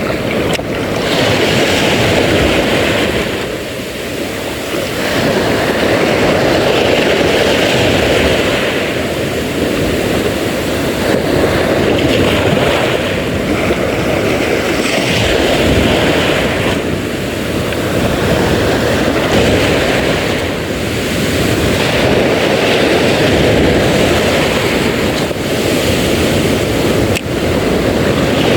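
Loud wind buffeting the microphone over sea and wave noise, a steady rush with a higher hiss that swells and fades every few seconds.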